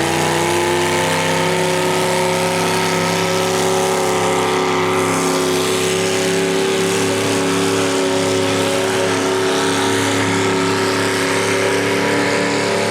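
Mini rod pulling tractor's engine held at high revs under full throttle during a pull, its pitch nearly steady with a slow, slight sag.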